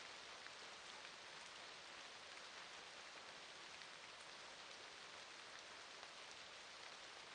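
Soft, steady rain: an even hiss of falling rain with scattered drop ticks.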